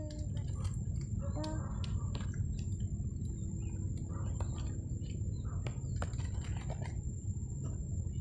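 Steady low rumble of strong wind, with scattered small clicks and crackles over it.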